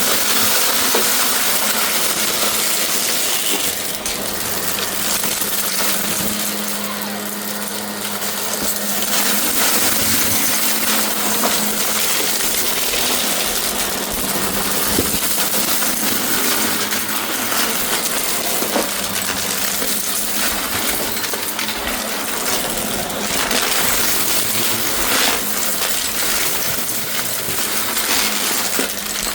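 Shark vacuum cleaner running, a steady motor hum under rushing air, its level swelling and easing as it is worked, with a few small clicks and rattles of picked-up debris.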